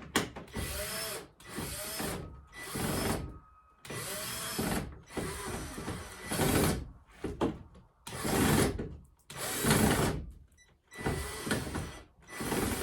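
Power drill run in about a dozen short bursts, each under a second, its motor pitch rising and falling with each squeeze of the trigger, backing screws out of an old wooden chicken roost.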